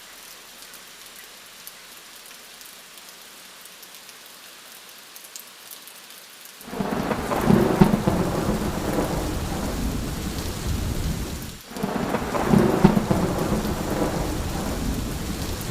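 Steady rain falling. About halfway through, loud rolling thunder breaks in suddenly and rumbles on, dropping out abruptly for a moment near the end before rumbling again.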